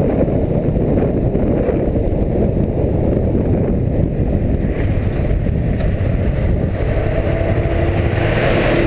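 Wind rushing over the microphone of a moving motorcycle, a Suzuki Inazuma GW250 parallel-twin, steady and low, with the engine and road noise underneath. Near the end a faint steady tone joins in and the hiss grows brighter.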